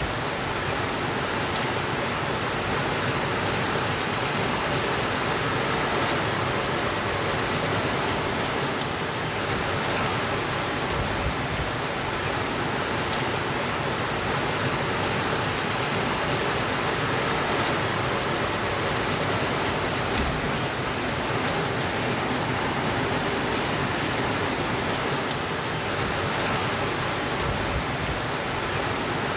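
Steady rainfall, an even hiss with occasional faint ticks of drops.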